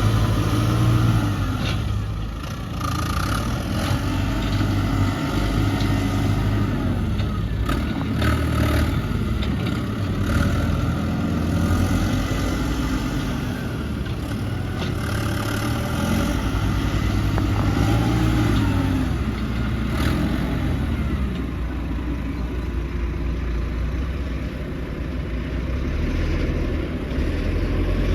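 Heavy diesel earthmoving machinery running under changing load, its engine pitch rising and falling every few seconds, with a few sharp clanks.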